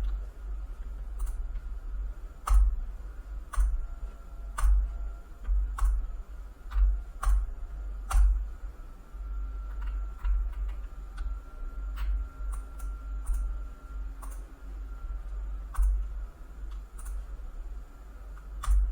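Single sharp clicks of a computer mouse, roughly one a second for the first eight seconds and then more sparsely, over a steady low hum.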